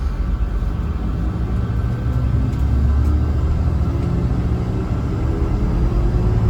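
Mercedes-Benz O307 city bus heard from inside the saloon while driving: a heavy low diesel engine rumble with road noise, the engine note climbing slowly in the second half as the bus pulls away.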